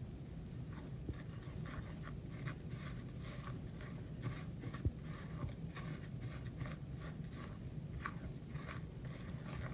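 A spoon stirring dry flour, cornmeal and rolled oats in a mixing bowl: soft, repeated scraping strokes about twice a second.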